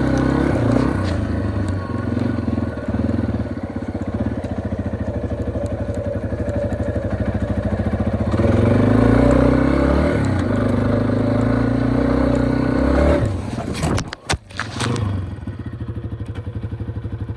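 Yamaha XT250's single-cylinder four-stroke engine running while ridden, pulling harder for a few seconds around the middle. Near the end the engine sound drops out abruptly with a sputter, then settles to a slower, even beat.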